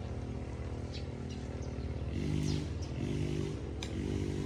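A motor engine running steadily with a low drone, with a few sharp clicks over it.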